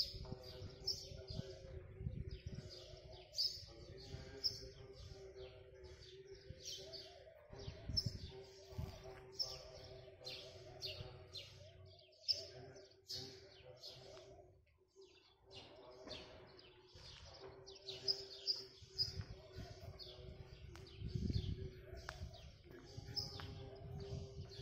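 Many small birds chirping in quick, overlapping calls throughout, over a steady low hum, with occasional low rumbles.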